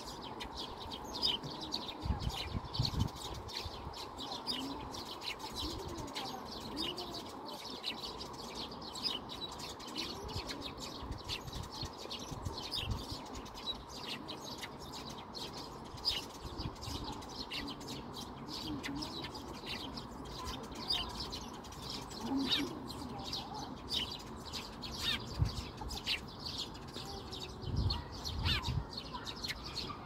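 Birds chirping and twittering: a steady stream of short, high chirps from several birds overlapping.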